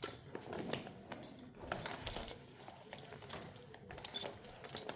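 Small hard objects clinking and rattling as they are handled, a run of short irregular clicks.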